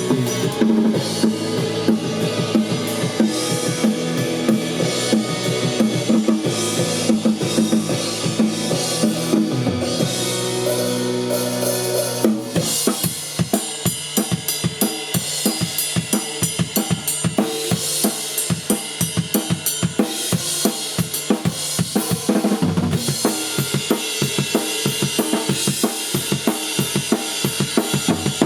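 Rock music played on a full drum kit with bass and guitar. About twelve seconds in the held notes drop away and the drums take over with a fast, even beat.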